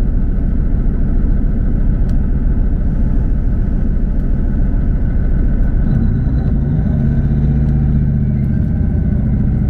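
Diesel passenger train running with a steady low rumble; about six seconds in, a steady low engine hum rises over it.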